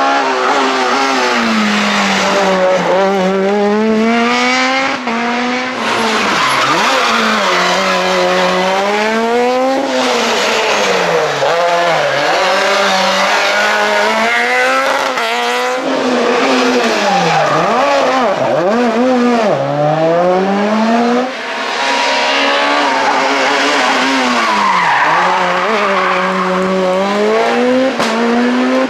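Super 2000 rally cars' naturally aspirated 2.0-litre four-cylinder engines revving hard, the pitch climbing and dropping again and again with gear changes and lifts, in several short runs cut one after another.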